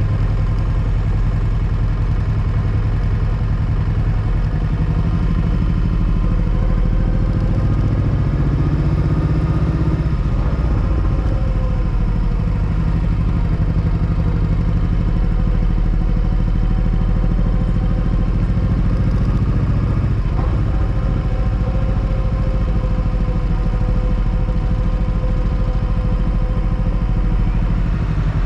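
Motorcycle engine running steadily, its pitch shifting slightly about ten seconds in and again about twenty seconds in.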